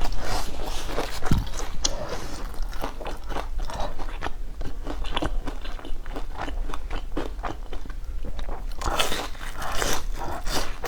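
Close-up crunchy biting and chewing of food, a run of irregular crisp crackles with a denser, louder burst near the end.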